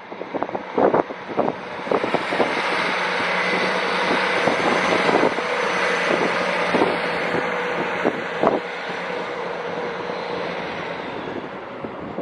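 A train running past at the station platform: a steady rush of noise that builds about two seconds in and eases toward the end, with many sharp knocks from the wheels over rail joints and points.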